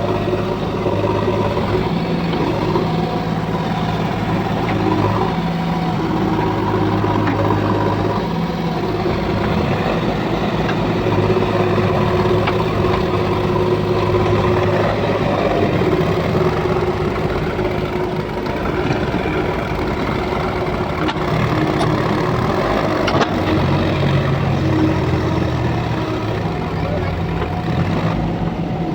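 Diesel engines of a JCB 3DX backhoe loader and tractors running under load in mud, with a steady low hum that shifts in pitch several times as the engines work.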